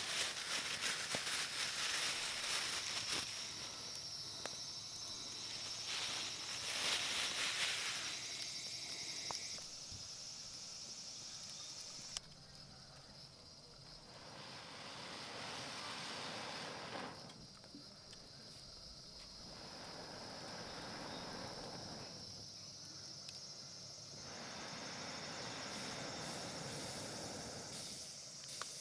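Insects, likely crickets, chirring steadily on one high note. Under it a rushing noise swells and fades every five seconds or so, with scattered crackles in the first several seconds.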